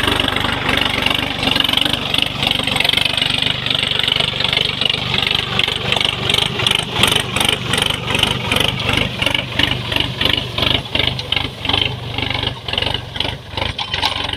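Sonalika DLX RX 50 4WD tractor's diesel engine running steadily, with a pulsing beat that becomes more pronounced in the second half.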